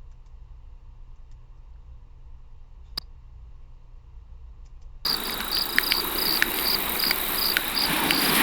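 Faint low hum with a single click about three seconds in, then a layered nature-sound recording starts abruptly about five seconds in: crickets chirping about four times a second over a steady ocean-wave hiss, with scattered fire crackles.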